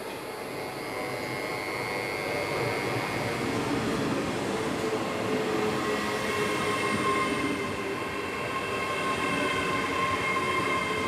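A train running through a main-line station: dense running noise with several high steady tones over it, getting louder toward the middle and staying loud to the end.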